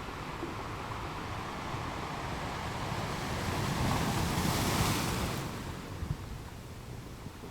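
Ocean surf on a beach: a wave builds, breaks with a swell of hiss about four to five seconds in, then fades as it washes out.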